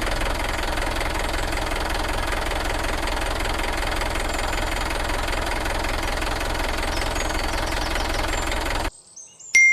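A small motor running steadily with a fast rattle, cutting off suddenly about nine seconds in.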